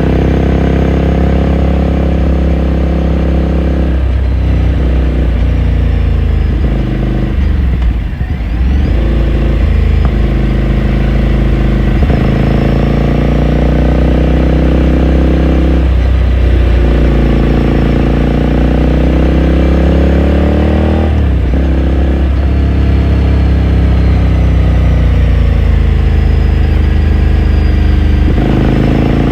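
2018 Ducati Scrambler Sixty2's air-cooled L-twin engine pulling steadily while riding, heard onboard. Its note drops and picks up again several times, with a short dip about eight seconds in, as the rider changes gear or eases the throttle.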